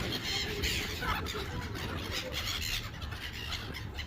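Seagulls calling in a flock, in uneven patches of squawks, over a steady low rumble.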